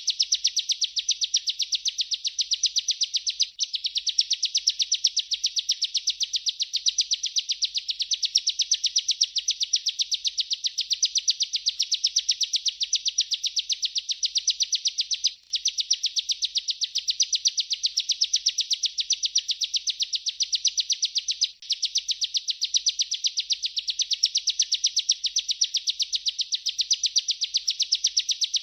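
Bar-winged prinia (ciblek) singing its long rolling 'ngerol' song: a fast, unbroken run of high chirping notes, interrupted only by three very short breaks.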